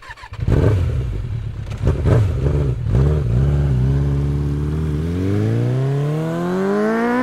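2001 Kawasaki ZX-12R's 1200cc inline-four through its Fuel aftermarket exhaust: a few quick throttle blips, then a steady run and a long, smooth climb in revs near the end.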